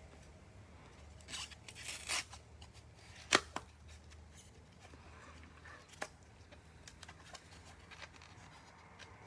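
Quiet handling of trading card packaging: a few crinkling, tearing rustles, then a sharp tap about three and a half seconds in and a softer one near six seconds, over a low steady hum.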